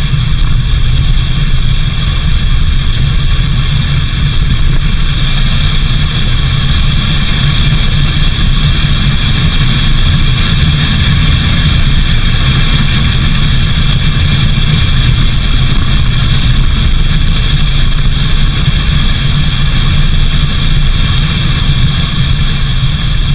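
A car driving steadily, with a continuous low rumble and a steady hiss of road and engine noise.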